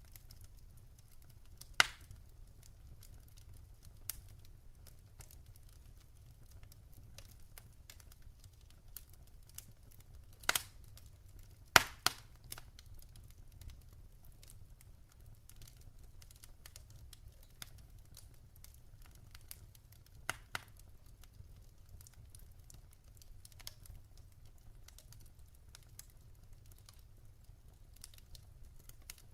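Wood fire crackling in a fireplace: scattered light ticks and crackles, with a few sharp pops from the burning logs, the loudest about twelve seconds in, over a faint low rumble.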